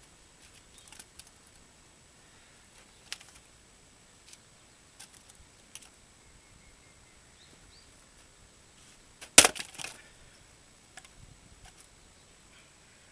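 An axe strikes a round of dried larch firewood once, loudly, about two-thirds of the way in; a short crackle of splitting wood follows. A few faint knocks and clicks come before and after.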